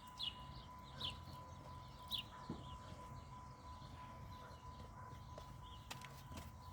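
Bird chirping: three short, high, falling chirps about a second apart in the first two seconds, over a faint steady whine and low hum.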